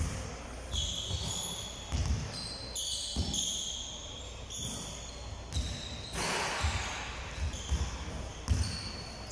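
A ball bouncing on a hard floor in a large hall, irregular thuds about once or twice a second, mixed with short high squeaks.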